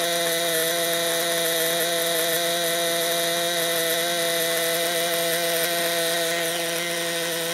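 Nitro RC buggy's small glow-fuel engine idling, a steady high buzz that holds one pitch throughout.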